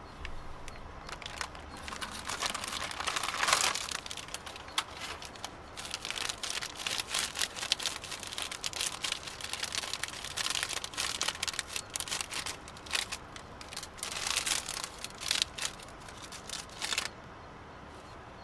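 Irregular crinkling and rustling handling noises with many small clicks, stopping suddenly about a second before the end.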